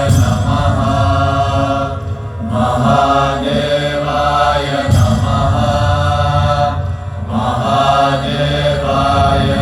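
Devotional chanting of a mantra over music, with voices holding long sung notes above a steady low drone. The phrases break briefly about two seconds and seven seconds in.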